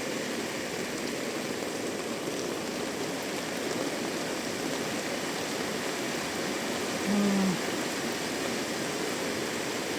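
Heavy rain pouring steadily, a dense even hiss. About seven seconds in, a brief low tone lasting about half a second stands out above it.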